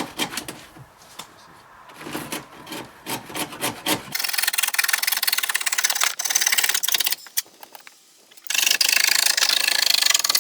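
Wood being scraped and cut away by hand where a door binds: first a run of short separate strokes, then about three seconds of continuous rasping, a brief pause, and another two seconds of rasping.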